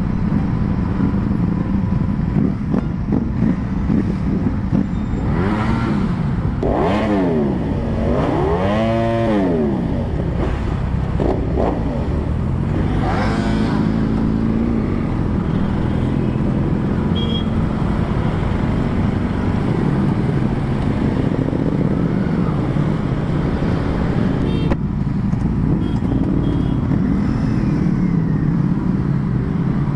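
Ducati Panigale V4 superbike's V4 engine idling, revved in several quick throttle blips in the first half before settling back to a steady idle.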